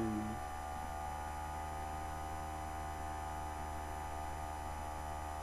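Steady electrical mains hum with many evenly spaced overtones, unchanging throughout, picked up by the recording setup.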